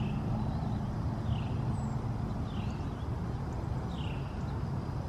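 A bird calling over and over, one short falling chirp about every second and a half, over a steady low rumble.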